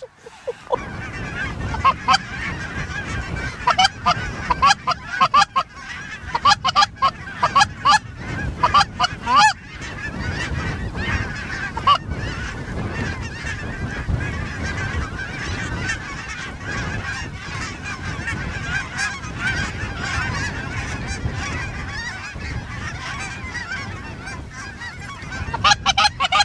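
A flock of geese honking, many calls overlapping: sharp, closely packed calls for the first ten seconds or so, then a steady massed clamour of calls.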